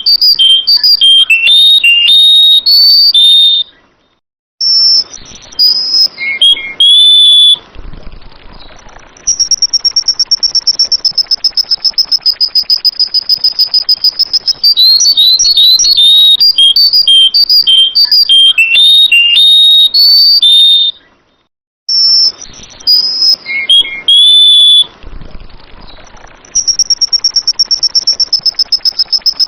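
Sooty-headed bulbul (kutilang) singing: bursts of quick, clear, bubbling whistled phrases. These alternate with long stretches of a steady, fast-pulsing high trill, and the same sequence repeats in a loop.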